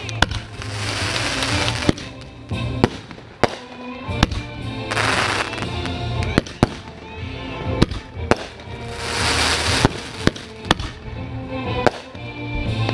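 Fireworks show: a dozen or more sharp bangs of aerial shells bursting in quick succession, with three longer rushes of crackling hiss between them.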